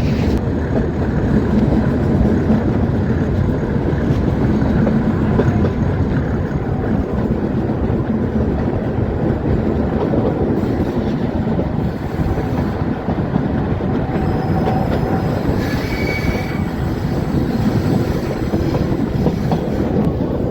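Metre-gauge train running along the track: a steady loud rumble of the coach wheels on the rails, with a brief faint squeal about three-quarters of the way through.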